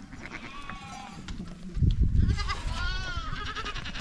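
Several goats bleating, overlapping, the calls growing dense and wavering from about halfway in. A loud low rumble starts just before the middle and runs under them.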